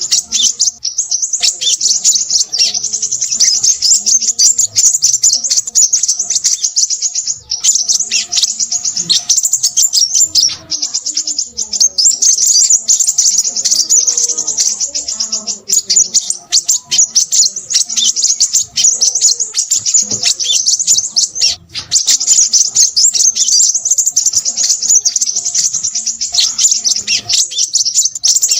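Crimson sunbird singing noisily: a rapid, unbroken run of thin, high chips and twitters, with two brief pauses, about a quarter of the way in and about three-quarters through.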